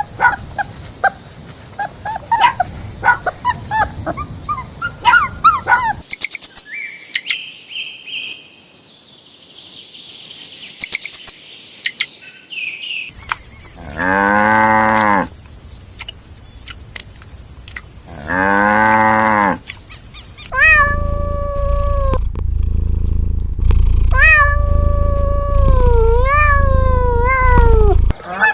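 Animal calls, most of them a cat meowing. Short scattered chirps come first, then two drawn-out, arching meows around the middle, then a run of longer, wavering meows in the last third.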